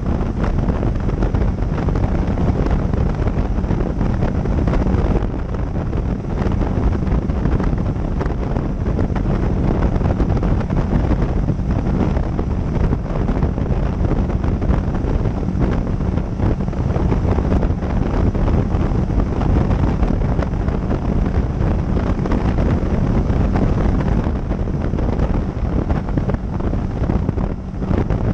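Heavy wind rushing over the microphone of a motorcycle-mounted camera at riding speed, with the motorcycle's engine running steadily underneath.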